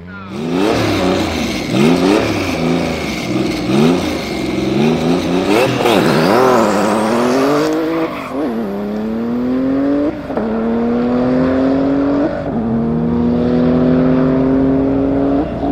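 Tuned Porsche 993 GT2's air-cooled twin-turbo flat-six revving up and down unevenly, then accelerating hard through the gears: the pitch climbs steadily and drops sharply at each upshift, four times about two seconds apart.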